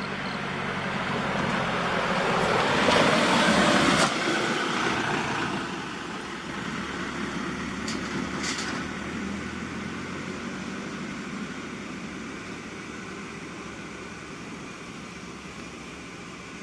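Large truck driving past, its engine growing louder to a peak about three to four seconds in, then dropping away to a steady fainter vehicle rumble.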